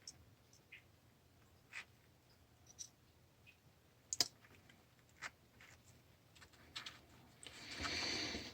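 Faint, sparse clicks and taps of small metal parts and tools being handled while a water feeder valve is reassembled, the sharpest about four seconds in. Near the end comes a louder breathy rushing noise lasting about a second.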